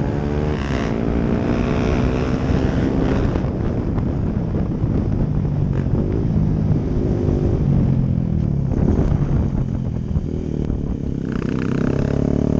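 Honda CRF250L single-cylinder four-stroke with a Yoshimura exhaust riding past, its engine note rising and falling several times through the revs. About eleven seconds in it settles into a steady note.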